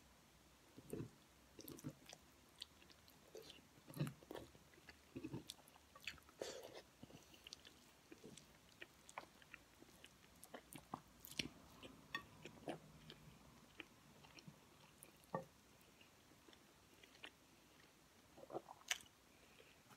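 Faint chewing of a mouthful of rice and kare-kare stew, with many small scattered clicks and mouth noises.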